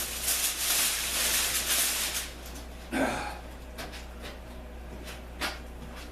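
Rustling and crinkling of the cardboard and tin-foil wrapping for about two seconds, then a short rustle and a few light knocks.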